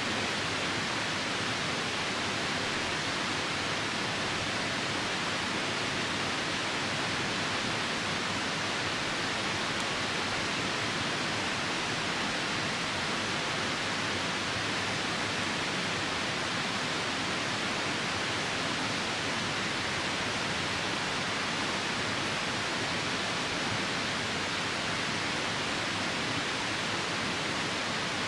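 Steady rushing noise of a nearby river during rain, even and unbroken, with no separate crackles standing out.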